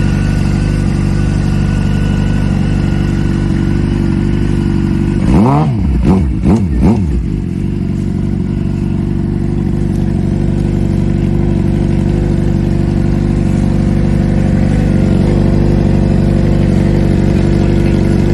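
Motorcycle engine idling steadily, blipped three times in quick succession about five seconds in, each rev rising and dropping back to idle.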